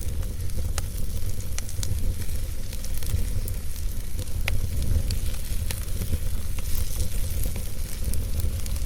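Wood fire burning in a fireplace: a steady low rumble of flame with a hiss and scattered sharp crackles and pops.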